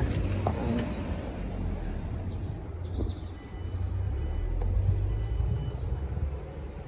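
Steady low rumble of vehicles, with faint high whistling tones through the middle.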